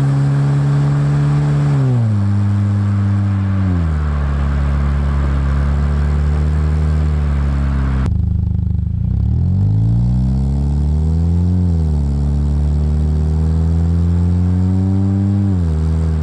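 2011 Mazda 6's 2.5-litre four-cylinder engine running through a new aftermarket DNA exhaust. It is held at raised revs, then drops back to a steady idle. After a cut it is revved up twice, the second time climbing slowly, and falls back to idle near the end.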